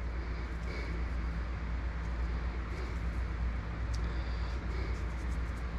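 A steady low hum and hiss of background noise, with a few faint small clicks and rustles from handling.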